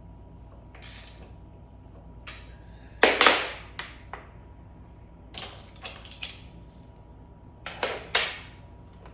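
Metal tools and parts clinking and clattering as they are handled during motorcycle fork work, a series of short knocks with the loudest clatter about three seconds in and two smaller clusters near the middle and end. A faint steady hum runs underneath.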